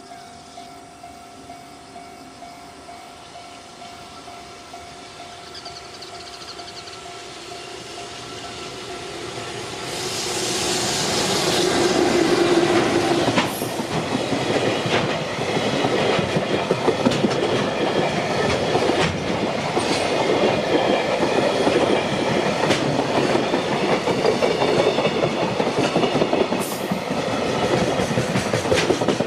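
A level-crossing warning bell rings steadily in repeated pulses. About ten seconds in, a JR Freight container train arrives and passes close by at speed, and the rest is the rhythmic clickety-clack of container wagon wheels over the rail joints.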